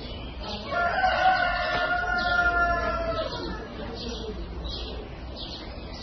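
A single long, drawn-out bird call lasting about two and a half seconds, starting about a second in. Small birds chirp repeatedly throughout.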